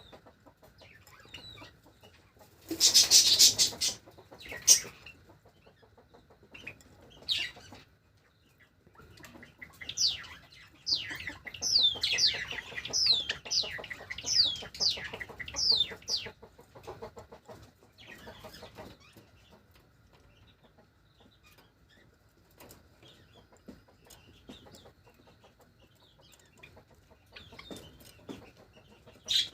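Java sparrows calling with short chirps, including a run of quick falling chirps near the middle, and a loud rustling burst about three seconds in.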